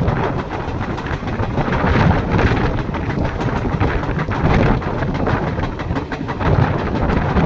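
Train running along the rails: a steady rumble with rapid, irregular clicking of the wheels over the track.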